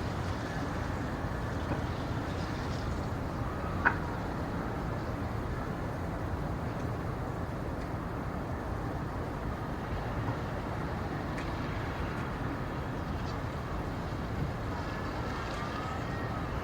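Steady low rumbling background noise with no clear source, broken once by a sharp click about four seconds in, with faint short rising chirps near the end.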